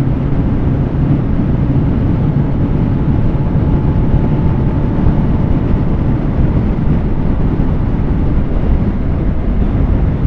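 Kawasaki ZX-10R superbike's inline-four engine running steadily at a constant cruising speed, a dense low rumble with no revving up or down.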